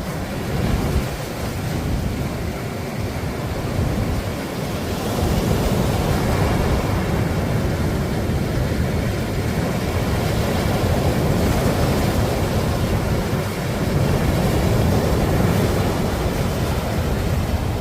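Sea waves breaking and washing up on a beach, with wind buffeting the microphone and adding a low rumble. The surf swells louder about five seconds in, eases briefly near the end, then rises again.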